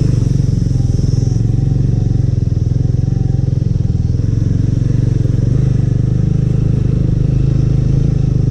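Small two-wheeler engine running steadily under load while riding.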